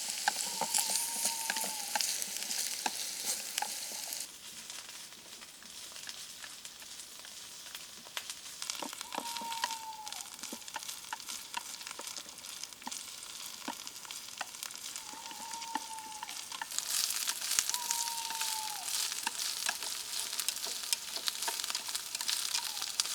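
Food sizzling and crackling over a campfire, with many small pops; the hiss drops back about four seconds in and grows louder again about two-thirds of the way through. A short whistled call, bending down at its end, sounds about five times over the sizzling.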